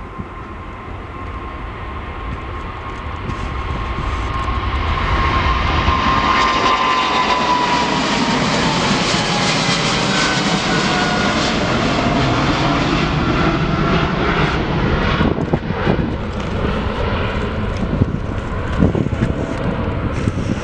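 Jet airliner passing close by. Its engine noise builds over the first few seconds, a whine falls in pitch as it goes past, and the engine noise stays loud afterwards.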